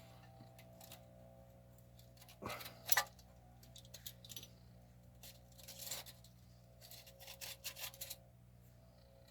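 A few light knocks and metallic clinks: a rubber mallet tapping vice grips clamped on a corroded dipstick tube, trying to work it free. The sharpest knock comes about three seconds in and a quick run of taps near the end, over a steady low hum.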